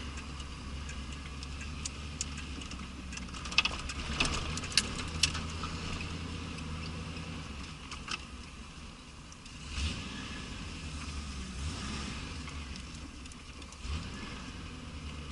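1983 Pontiac Trans Am's 305 small-block V8 running steadily while the car is driven, with a few sharp clicks about four to five seconds in.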